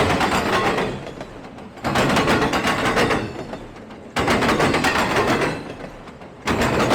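Freight train cars rolling past, their wheels clattering over the track in a burst that comes about every two and a quarter seconds, each one starting sharply and fading.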